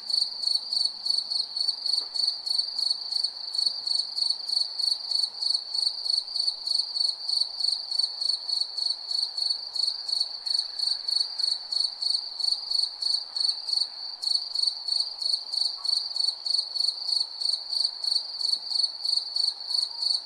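Cricket chirping at night: a high, steady-pitched chirp repeated at an even pace of about four a second, without a break.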